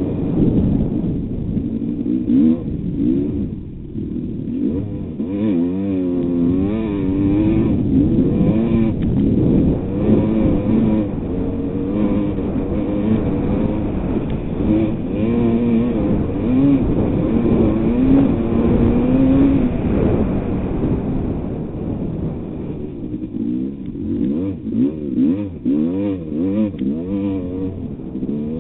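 1988 Kawasaki KX250's two-stroke single-cylinder engine revving up and down over and over as it is ridden hard through the mud, the pitch rising and falling every second or so. Towards the end the throttle goes on and off more choppily.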